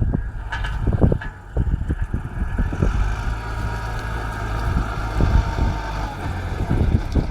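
Zetor 9540 tractor's diesel engine running steadily under load while pulling a Kverneland stubble cultivator, with irregular knocks and thuds over the drone.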